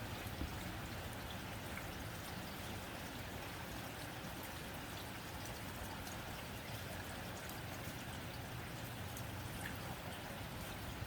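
Steady rain on a tin roof: an even patter of drops on metal sheeting, with scattered sharper ticks of single drops.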